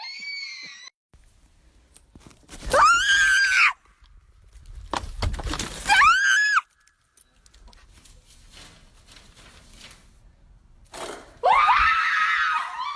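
A person screaming in fright three times, loud and high-pitched, with a burst of noise between the first two screams.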